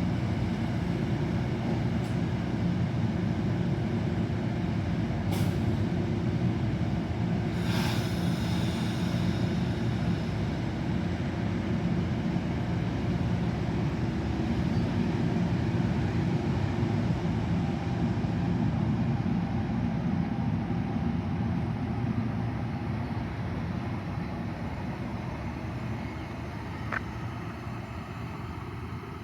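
Train running steadily with a low rumble, a short hiss of released air about eight seconds in, then fading away over the last few seconds.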